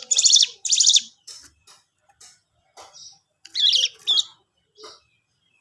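Cigun songbird chirping in quick high trilled bursts: two loud bursts near the start, scattered fainter calls, then another loud burst about three and a half seconds in.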